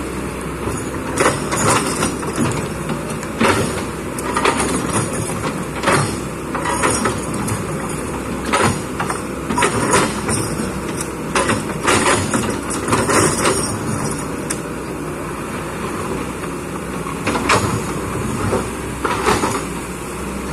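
Kobelco excavator's diesel engine running under load while its bucket scrapes and knocks against rocks, with frequent sharp clanks a second or so apart.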